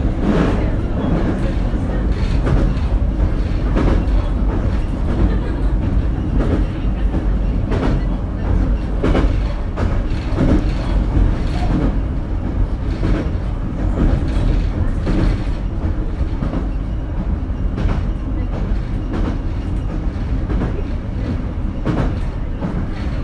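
Running noise inside a JR Kyushu BEC819 series battery-electric train car under way: a steady low rumble with wheels clicking over rail joints.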